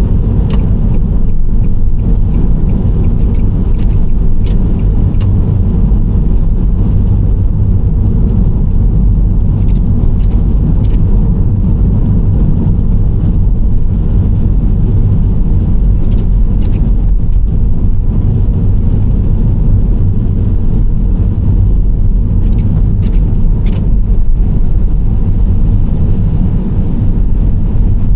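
Nissan Serena C25 minivan on the move: a steady low road and engine rumble, with a few faint sharp ticks now and then.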